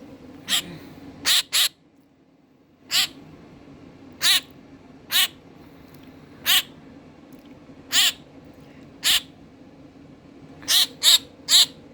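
A pet baby bird calling over and over in short, sharp squawks, about a dozen spaced a second or so apart, with a quick run of four near the end.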